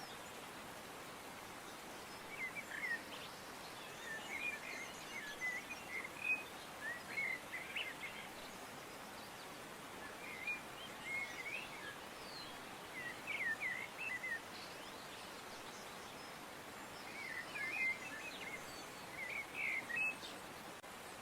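Small songbirds chirping in short bursts of quick, high twittering calls, over a steady background hiss.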